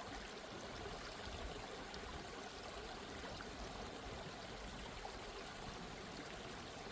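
Steady, soft sound of flowing water, like a gently running stream, used as a relaxation background track.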